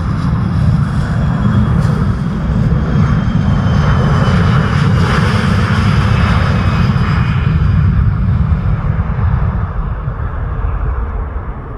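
Embraer E175 regional jet's twin GE CF34 turbofan engines at takeoff power: a loud rumble with a high whine on top. It swells to its loudest in the middle and fades over the last few seconds as the jet moves away.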